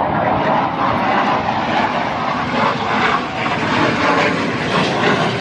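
Military jet aircraft passing overhead: loud, steady jet engine noise with slow swells in level.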